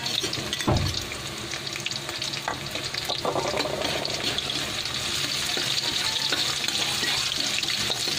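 Garlic, onion and ginger sizzling in hot oil in a metal wok, with a metal spatula scraping and clicking against the pan as they are stirred. A dull knock just under a second in.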